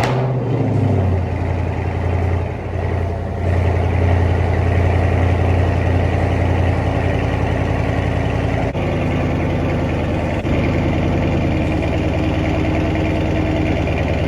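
Dodge Charger Widebody's V8 with its mid muffler deleted, just after a cold start: the start-up surge fades within the first second or two into a steady idle.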